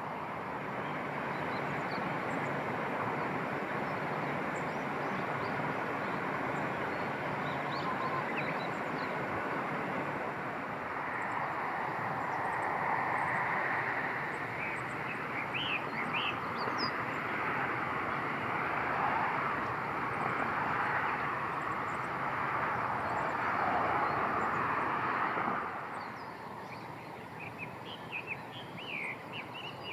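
Outdoor ambience: a steady rushing noise with scattered small bird chirps over it. The rushing swells in the middle and falls away sharply near the end, leaving the chirps clearer.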